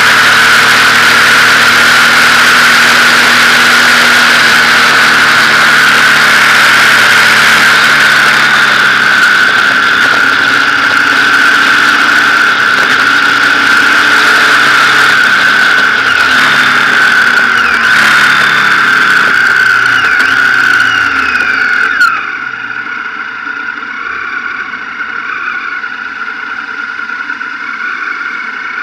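Motorcycle running on the road with loud wind rush and a steady high whine, with engine pitch falling at times. A little over two-thirds through, the sound abruptly becomes quieter and duller.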